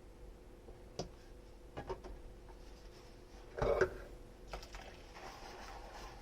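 Dishes being handled in the kitchen: a few light clinks, then a louder clatter of tableware a little past halfway, with a short ring after it.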